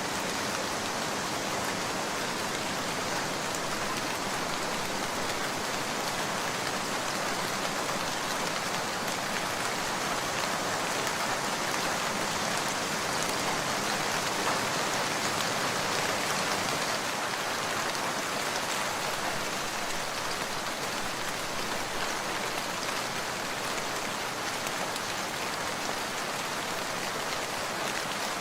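Steady rain falling, an even hiss of many drops that neither swells nor breaks.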